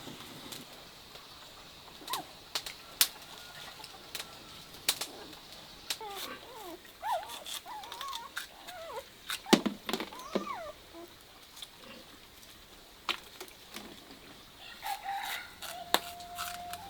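Chickens clucking and calling in short notes that bend up and down, mostly in the middle stretch, among scattered sharp clicks and knocks.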